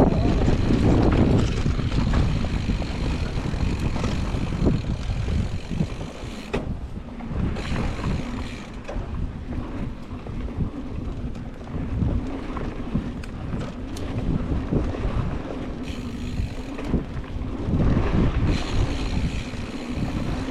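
Wind rushing over a GoPro's microphone while a mountain bike rolls along a dirt trail, with a steady rumble of tyres and a few short knocks and rattles from the bike.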